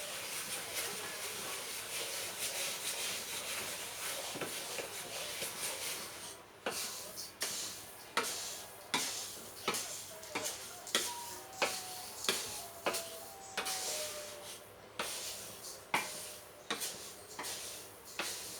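A spatula stirring dry grain and seed being roasted in a pan. There is a steady hiss for the first six seconds, then rhythmic scraping strokes about every three-quarters of a second as the grains are turned over.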